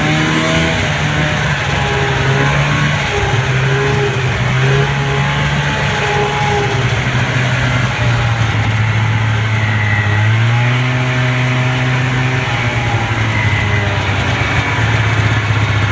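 Polaris Indy Lite snowmobile's 340 fan-cooled two-stroke twin running under changing throttle, its pitch stepping and gliding up and down, with a rise about ten seconds in.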